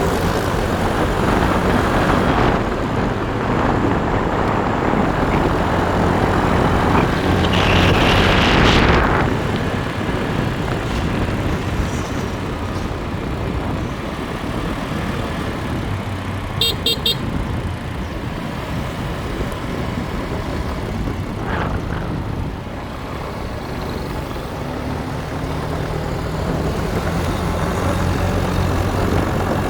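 Motorbike engine running under way, with wind rushing over the microphone. The noise swells louder around eight seconds in, and a horn gives a quick burst of short toots about seventeen seconds in.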